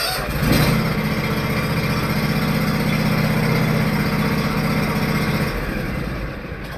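An engine running steadily with a low hum over a constant hiss; the hum drops away about five and a half seconds in.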